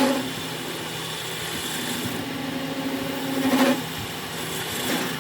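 A workshop machine running with a steady hum, its sound swelling and getting harsher for about a second and a half in the middle, as if the tool is working the metal part.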